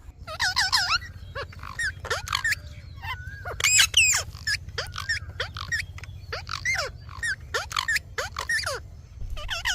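Lovebirds chattering: a rapid run of short, shrill chirps and squawks, many sliding up or down in pitch, over a steady low hum.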